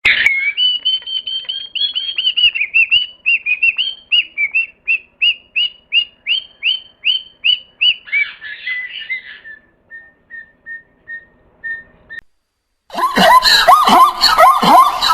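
A small bird chirping: a quick run of short, high, downward-sliding peeps, about two a second, fading to fainter single peeps. A brief pause follows, then a much louder, harsher animal call begins near the end.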